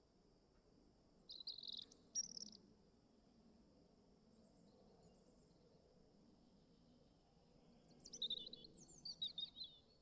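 Small birds chirping in two short bursts of quick high notes, about a second in and again about eight seconds in, over a faint steady high-pitched hiss.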